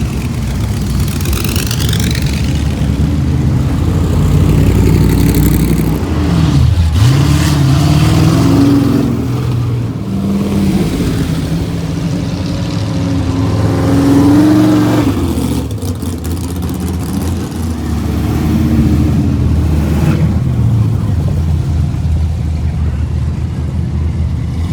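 Car engines running and revving, their pitch rising and falling several times over a steady low rumble.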